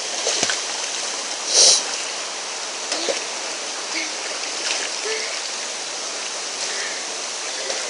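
Waterfall and stream water rushing steadily, with a brief louder burst of hiss about a second and a half in.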